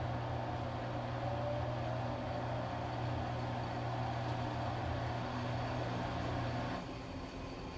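Washing machine running with a steady low motor hum and a churning noise above it; about seven seconds in the churning noise drops away, leaving mostly the hum.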